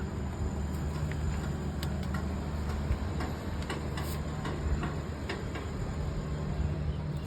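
Scattered light ticks and clicks, irregular and a few a second, over a steady low hum.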